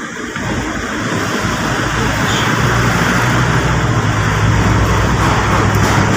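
A motor vehicle's engine running with a steady low hum, growing slowly louder over the first couple of seconds.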